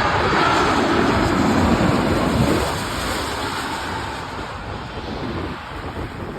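Jet engine noise of an Airbus A330-300 going past on its landing, loudest for the first two and a half seconds and then slowly fading away.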